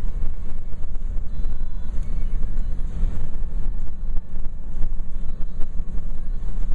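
Steady low rumble of a vehicle, with wind noise on the microphone.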